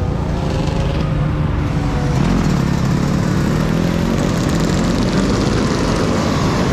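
Riding noise from an electric dirt bike in traffic: steady wind rumble on the microphone and road noise, with a vehicle engine running in the mix.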